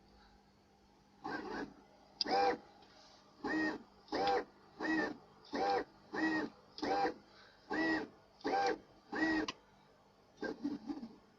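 Car power-window motor whirring in short bursts as it works a motorcycle clutch: about a dozen evenly spaced runs, each well under half a second, then a few quicker, choppier ones near the end.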